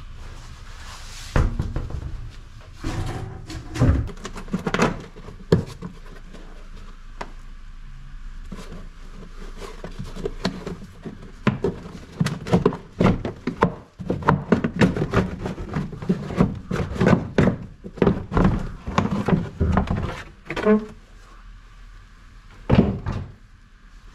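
Repeated knocks and clunks of tools and metal parts during work on a car's rear shock absorber and wheel, sparse at first and then in quick runs through the middle.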